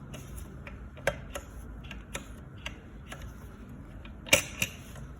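Motorcycle gearshift mechanism worked by hand, giving a series of sharp metallic clicks, with two louder clicks near the end, as the newly reinstalled selector part is tested for shifting.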